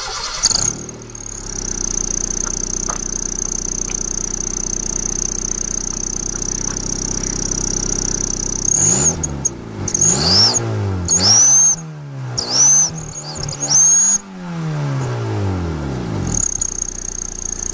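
Car engine starting up, then idling with a steady high-pitched whistle from a turbo whistler fitted in the exhaust muffler. In the second half it is revved in several quick blips, the whistle's pitch swooping with each rev, then it drops back to idle with the whistle, sounding like a turbo.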